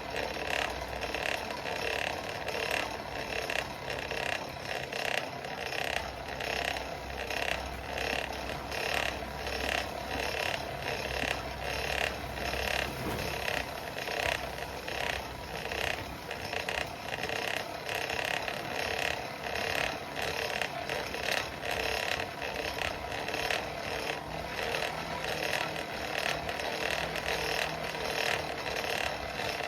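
Coal forge blower running, with air rushing through the fire pot in a steady noise that pulses about twice a second.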